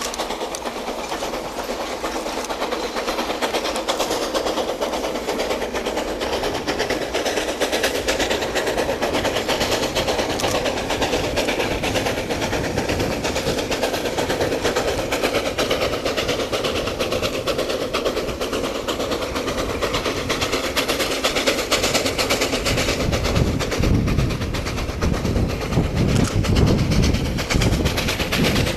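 Coal train hauled by a C2 narrow-gauge steam locomotive, running with a steady rattle and clatter of wheels and wagons on the rails. A heavier low rumble comes in over the last few seconds.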